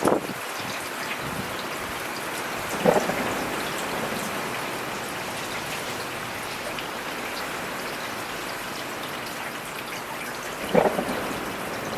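Steady heavy rain falling on a surface, with three brief louder thuds: at the start, about three seconds in, and near the end.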